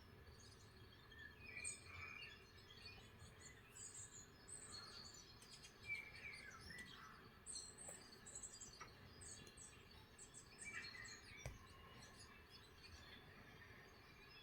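Faint chirping and twittering of several small songbirds, many short calls scattered throughout, over a low steady hiss.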